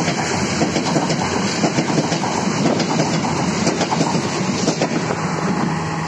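Passenger train coaches passing close at speed: a steady clatter of steel wheels clicking over rail joints, with rattling from the running gear.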